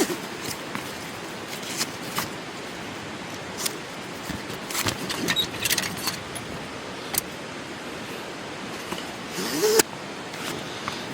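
Small objects clicking and clinking at irregular moments over a steady background hiss, with a brief rising rasp near the end.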